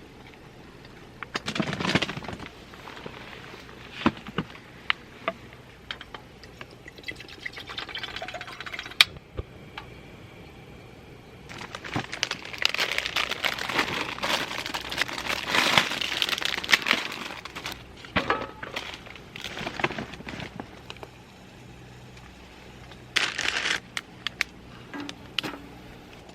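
Rustling and crinkling, as of packaging or bags being handled, with scattered clicks and knocks of gear being set down; a longer stretch of rustling comes about halfway through.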